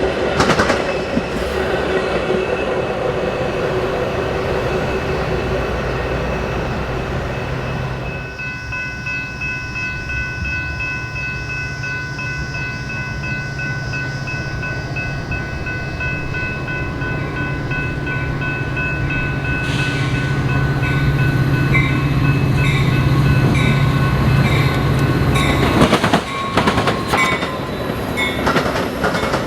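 A train passing close by: wheels clattering over the rails. From about eight seconds in, a low engine drone and several steady high tones take over until near the end.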